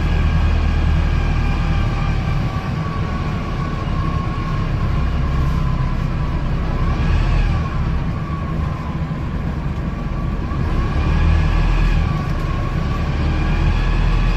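Wright StreetDeck double-decker bus running on its Mercedes-Benz OM934 diesel, a steady low rumble with whining tones that rise and fall with road speed, along with the loud grinding noise this bus is known for.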